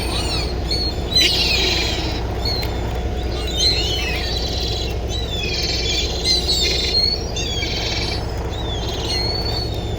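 Wild birds chirping and calling repeatedly, many short, quick notes and sweeping calls overlapping, over a steady low rumble.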